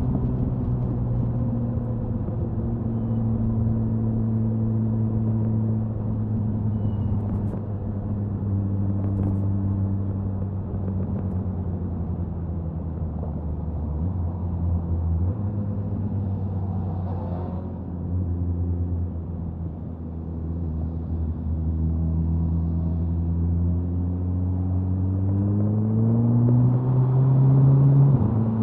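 Suzuki Hayabusa inline-four motorcycle's exhaust at highway cruising speed, a steady engine note with wind noise. The pitch drops about halfway through, then climbs in the last few seconds as it accelerates and falls abruptly at the very end, like a shift up a gear.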